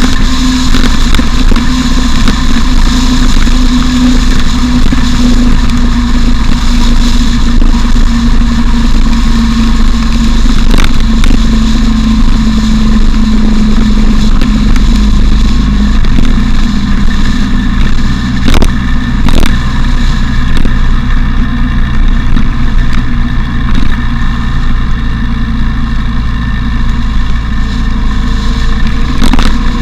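Motorcycle engine running steadily on the move, loud on the bike-mounted camera, with its tone sagging slightly midway. A few short knocks are heard, around 11 s, twice near 19 s, and near the end.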